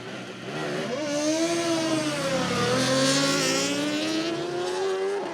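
Superbike engines screaming at high revs as they pass at speed on a drag run. The sound swells to its loudest about three seconds in, and the pitch dips as they go by, then climbs again.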